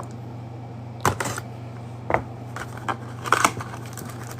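Trading cards and their cardboard and plastic packaging being handled: a few sharp clicks and taps, with a cluster near the end, over a steady low hum.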